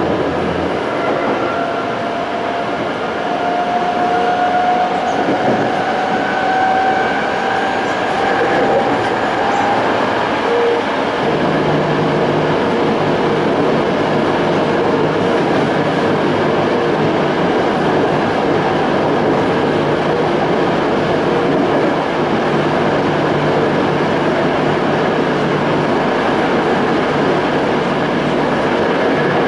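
Onboard running sound of a Toei 5300 series electric train with a Hitachi-built Mitsubishi GTO inverter: continuous wheel and rail noise, with a rising whine over the first ten seconds or so, after which the whine gives way to a steady low hum.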